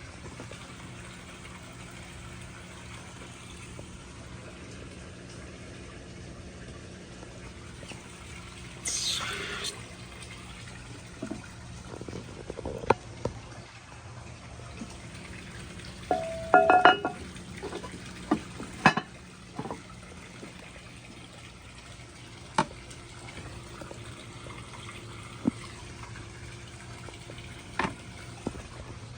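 1967 American Standard Glenwall toilet running water, with a steady hiss and low hum. There is a short rush of noise about nine seconds in, a cluster of sharp knocks and clicks between about twelve and nineteen seconds, and a few single knocks later.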